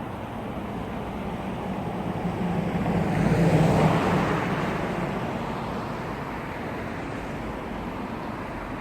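A motor vehicle passing on the road: engine and tyre noise swell to a peak about three and a half seconds in, then fade away.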